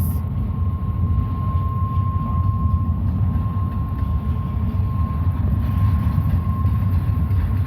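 Intermodal double-stack container cars of a freight train rolling past, a steady heavy rumble of wheels on rail, with a faint steady high tone above it.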